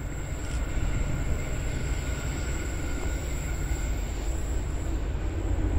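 Trains approaching in the distance, a suburban electric train with a diesel freight locomotive behind it: a steady low rumble that slowly grows louder.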